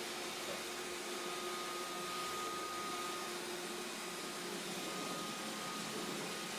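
Roomba 531 robot vacuum running: a steady whirring hiss with a thin high whine over it.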